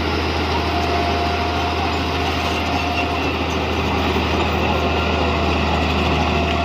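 Bulldozer's diesel engine running steadily, with a strong low drone throughout.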